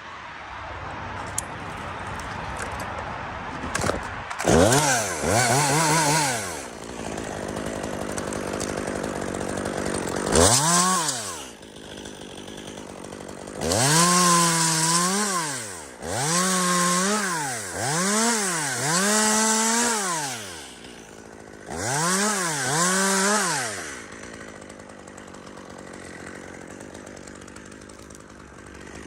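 Two-stroke chainsaw working in a spruce tree, revved up in about six bursts of a second or two that rise and fall in pitch, several of them back to back in the middle, and dropping back to idle between them.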